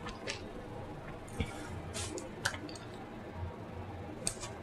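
Close-miked eating sounds: wet mouth smacks and squishy chewing, a handful of short sharp smacks spread across a few seconds over a low steady hum.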